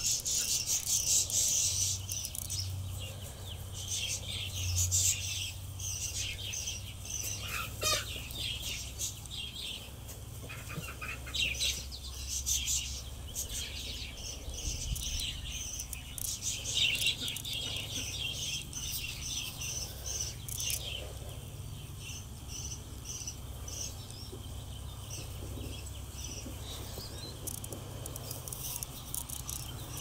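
Small birds chirping: many short, high chirps scattered throughout, some in quick runs, over a steady low rumble.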